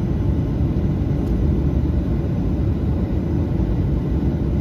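Airliner cabin noise: the steady low rumble of the engines running.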